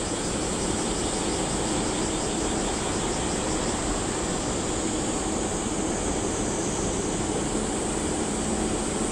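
JR Shikoku 8600 series electric train approaching along the line, its running noise a steady, even wash of sound.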